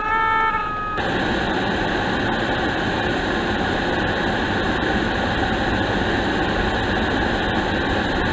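Steady rushing noise inside a car's cabin, the blower and road or wind noise of a car in a blizzard. It follows a held horn-like tone that cuts off about a second in.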